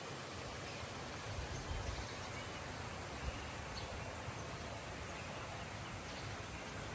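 Outdoor nature ambience: a steady hiss of insects with a few faint, brief bird chirps and some soft low bumps.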